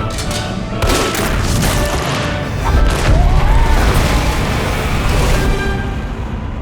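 Dramatic trailer music with heavy booms and sharp impacts. The deep rumble is strongest in the middle, then dies away near the end.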